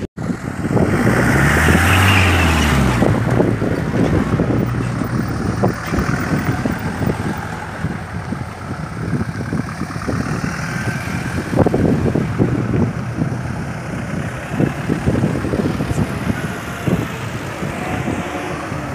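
Off-road 4x4 vehicle engines running, with one engine's pitch rising and falling about two seconds in. Wind buffets the microphone.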